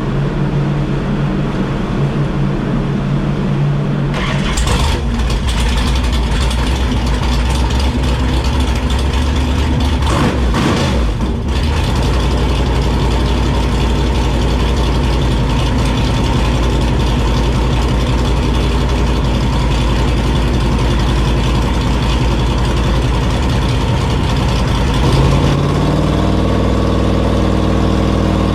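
Freshly rebuilt 7.0-litre (427 ci) stroked LS V8 running on an engine dyno. It runs steadily, changes and grows fuller about four seconds in, and its revs climb near the end.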